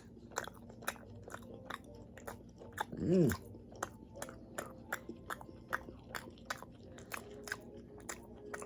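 A person chewing a mouthful of beef close to the microphone, with wet mouth clicks about two to three times a second. About three seconds in there is a brief hummed "mm" that rises and falls in pitch, and it is the loudest sound.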